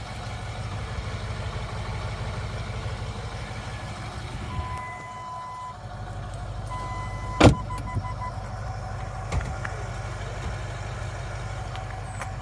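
Range Rover's 3.6-litre twin-turbo V8 diesel idling with a steady low rumble. Electronic beep tones sound twice in the middle, the second run breaking into short beeps, and a sharp thump comes about halfway through, with a lighter knock a couple of seconds later.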